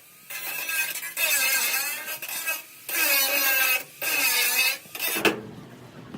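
A tool working metal in repeated strokes about a second long, each a high, wavering rasp, with short breaks between them; the strokes stop about five seconds in.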